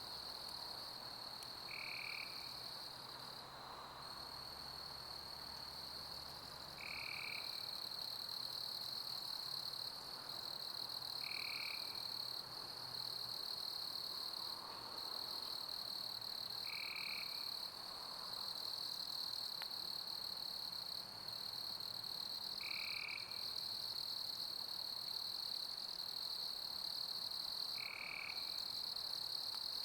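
A chorus of crickets chirping in a steady, high-pitched trill, with a short, lower call repeating about every five seconds, over a soft even hiss of pink noise.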